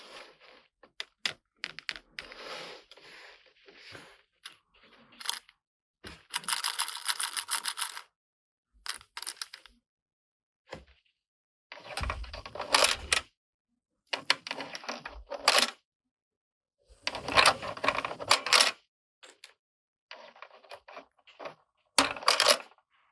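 Small hard plastic toy pieces and packaging being handled, in separate bursts of clicking and rattling with short pauses between. The longest is a quick, dense rattle about six seconds in.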